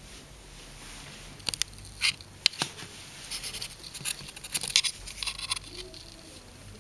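Light scratching and tapping of small claws on a hard surface: a small animal scrabbling about, in scattered clicks and short scratchy bursts through the middle few seconds.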